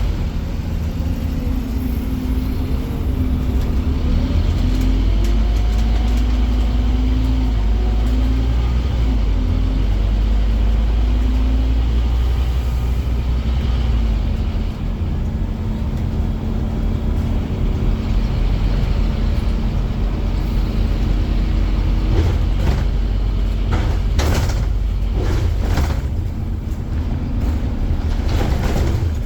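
Scania Omnicity double-decker bus running, a steady low engine drone with some shifting tones in the first half. The lowest rumble drops about halfway through, and several short sharp hisses or rattles come near the end.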